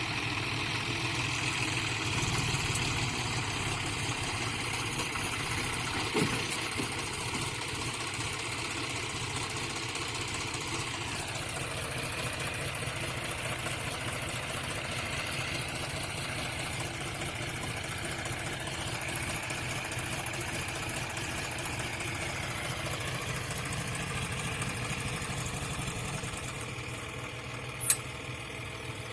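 John Deere tractor's diesel engine running steadily, with a short sharp knock near the end.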